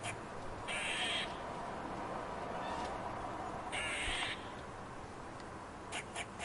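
An animal giving two harsh, raspy calls about three seconds apart, each about half a second long, with a few short clicks near the end.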